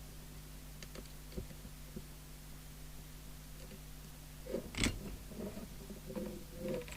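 Light clicks and handling noise from small parts being worked on at a bench, with a louder rustling clatter about two-thirds of the way through, over a steady low electrical hum.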